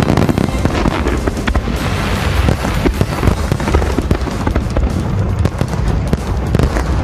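Large aerial fireworks display: a dense, continuous run of shell bursts and crackling reports over deep booming, with the show's accompanying music playing alongside.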